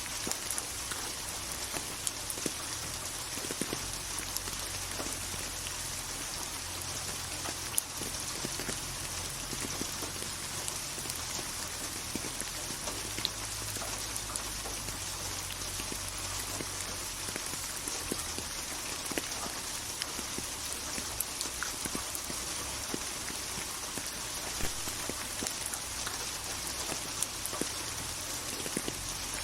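Steady rain falling: a dense, even hiss with scattered louder drop taps over a low rumble.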